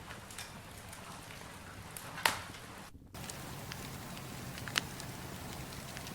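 Campfire burning: a steady low hiss with scattered sharp crackles and pops, the loudest about two seconds in and another near five seconds. The sound cuts out for a split second just before three seconds.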